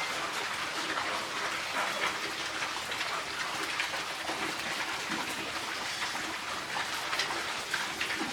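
Steady rain pattering on a surface, with scattered small drips and ticks.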